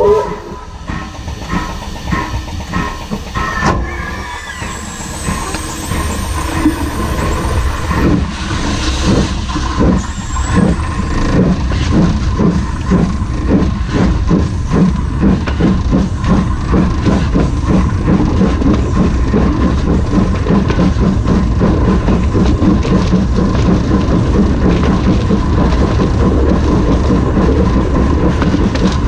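Heritage railway locomotive moving off slowly and gathering speed, its wheels rolling along the rail with a rhythmic beat that gets faster and louder.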